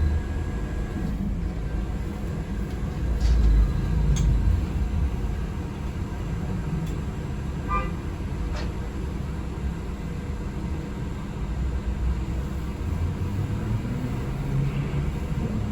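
Cabin noise of a moving city transit vehicle: a steady low rumble, with a few light clicks and a brief rattle near the middle.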